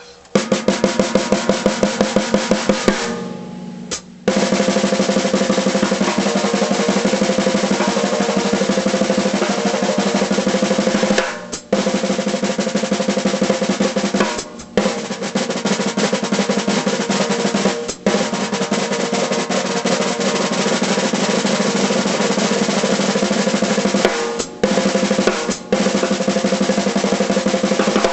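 1951 Slingerland Concert King 15x8 snare drum being played: a run of fast single strokes for the first few seconds, then long continuous rolls broken by a few brief pauses.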